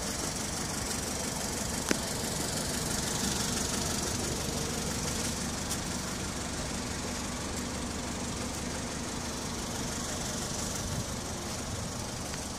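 A car engine idling steadily, with one small click about two seconds in.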